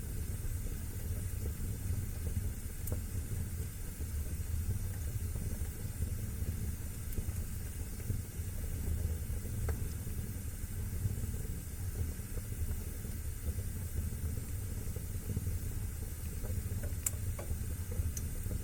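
Wood fire burning in a fireplace: a steady low rumble of flames with a few scattered sharp crackles.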